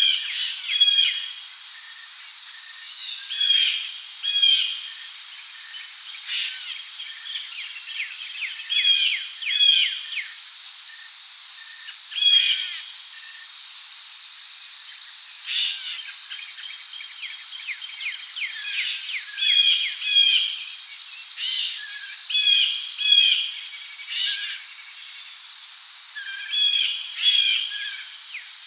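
Tropical rainforest ambience: a steady high-pitched drone of crickets with birds calling over it in short chirping phrases every one to three seconds.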